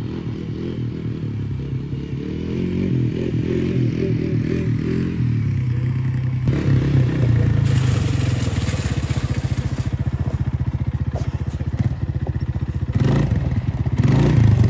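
Utility ATV engine running under throttle, its pitch rising and falling as it is ridden. A stretch of hissing and scraping joins it about eight seconds in.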